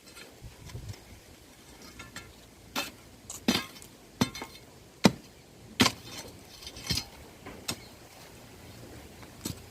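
A hand tool striking repeatedly in post-hole and post-setting work: about ten sharp, irregular clinking strikes, the loudest about five seconds in.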